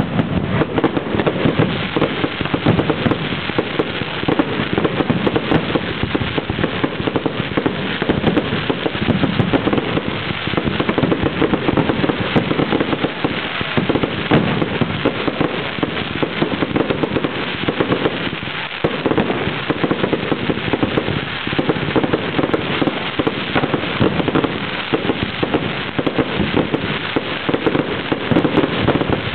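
A fireworks display going off without pause: a dense, continuous barrage of bangs and crackling. The recording is poor, with the top end cut off.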